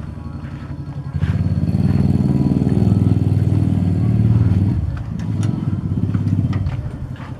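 Diesel generator engine running with a steady, rapid pulsing beat. It grows louder about a second in, eases briefly around the middle and then picks up again.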